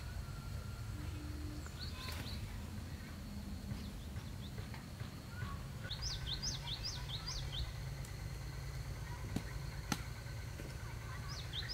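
Small songbird singing a quick trill of rapid rising-and-falling chirps, once about halfway through and again at the end, over a steady low outdoor rumble and a faint steady high tone. Two short sharp clicks come between the two songs.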